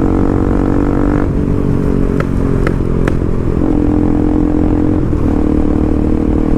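Motorcycle engine running under way at a steady speed, its note shifting about a second in and settling again a little past the middle, with a few short light clicks in between.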